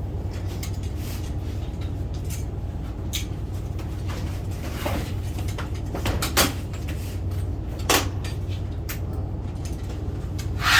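Scattered light knocks and clunks from a sectional garage door panel being pushed up and shimmed level, with two sharper knocks about six and eight seconds in, over a steady low hum.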